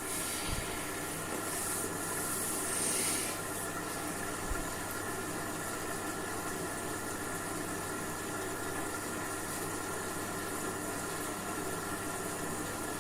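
Washing machine running with a steady motor hum, a high hiss in the first few seconds, and two soft low thumps.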